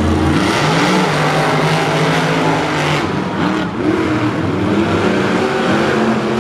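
Monster truck engines revving hard under racing throttle. The engine pitch climbs, holds, then drops and climbs again about three seconds in.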